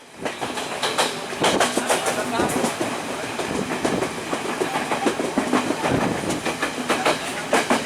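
Train running through a junction station, its wheels clattering over rail joints and points in a steady stream of sharp clicks and knocks.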